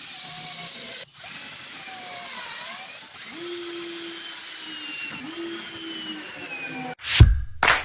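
Cordless drill driver's motor whirring at high speed, stopping briefly about a second in and changing speed several times. Near the end it cuts off and music with a heavy beat starts.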